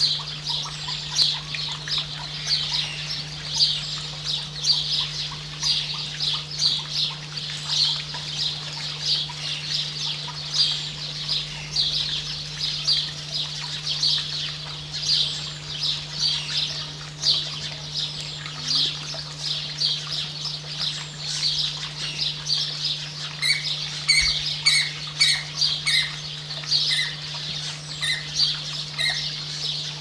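Birds calling: a continuous run of short high call notes, several a second, with a second bird's repeated lower notes joining about three-quarters of the way through. A steady low hum lies underneath.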